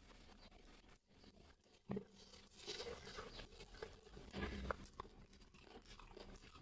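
A person chewing crispy fried chicken lollipop close to the microphone, with irregular crunches and crackles that grow denser about two seconds in.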